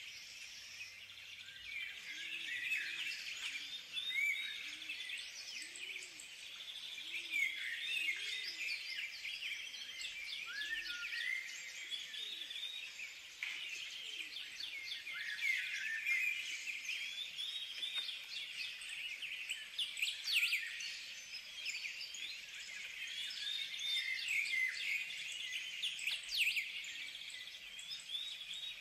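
Birds chirping and twittering continuously in many short, quick notes, with a lower call repeating about once a second during the first several seconds.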